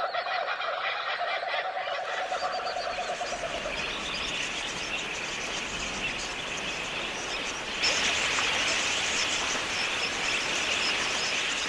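Dense chorus of bird calls. It changes abruptly about two seconds in and again a few seconds before the end, and is louder in the last part.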